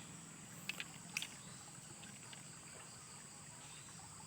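Faint, steady high-pitched insect drone with a low hiss under it, and a few soft clicks in the first second and a half.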